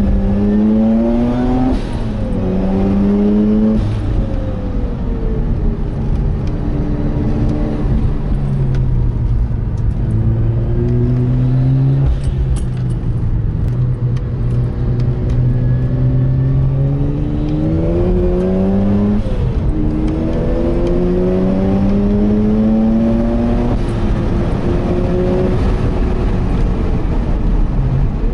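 Turbocharged Mazda RX-8's 13B rotary engine heard from inside the cabin, pulling hard through the gears with two quick upshifts in the first four seconds. It then winds down and holds a steady note mid-way, before climbing through two more gear changes in the second half, over steady tyre and road noise.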